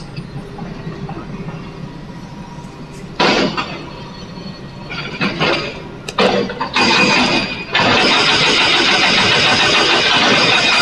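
Heavy diesel engine of quarry machinery. It hums low for about three seconds, then comes in loud bursts a little after three seconds and again around five to six seconds, and from about seven seconds on it runs loud and steady.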